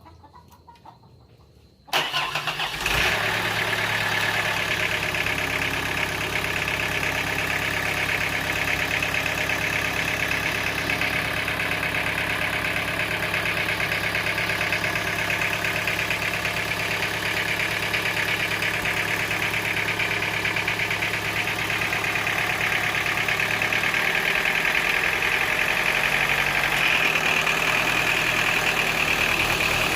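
Sawmill machine motor starting abruptly about two seconds in and then running steadily, with its tone shifting near the end.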